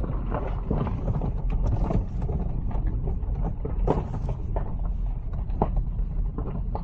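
Car driving along: a steady low rumble of engine and road noise, with frequent small irregular knocks and rattles.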